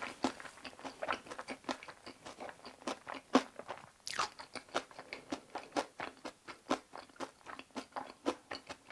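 A mouthful of food being chewed close to the microphone: a steady run of short, crunchy chews, about three a second, with a brief hiss about four seconds in.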